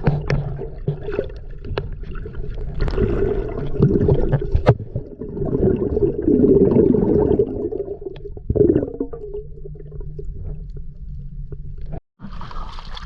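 Muffled water gurgling and sloshing, heavy in the low end, with scattered sharp knocks and clicks; the sound cuts out briefly near the end.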